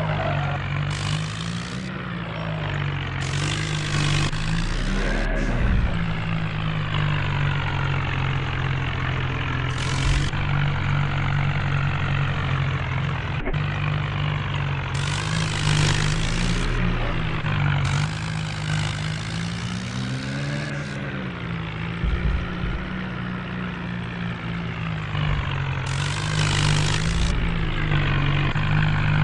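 Tractor diesel engine running hard under load, its pitch wavering up and down at times, with repeated bursts of hiss lasting a second or more.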